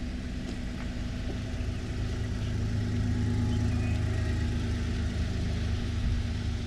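A motor vehicle's engine running steadily at low revs close by, a low hum that grows a little louder midway and then eases.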